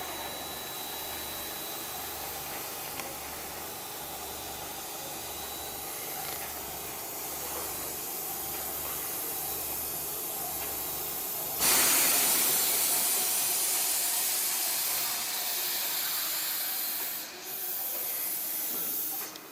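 Heavy typhoon rain hissing steadily over a railway station, with a pulsing low hum beneath it. About twelve seconds in, the rain suddenly grows much louder.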